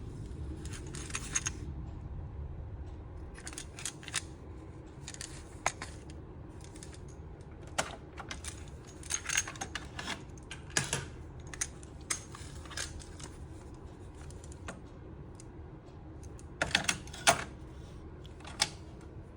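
Irregular sharp plastic clicks and short clatters from a Panasonic cassette boombox being handled, its controls and cassette deck being worked, with a faint low hum underneath.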